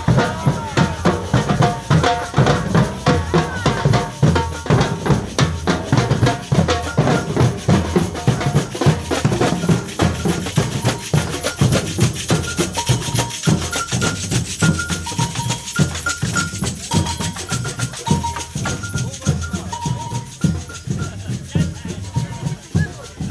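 Percussion-led music with rapid, dense drumming and shaken rattles. From about halfway through, a two-note tone alternates steadily between a high and a low note over the drumming.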